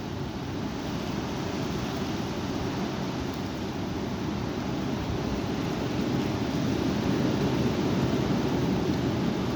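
High wind blowing and rumbling on the microphone as a steady rush, swelling somewhat about six seconds in.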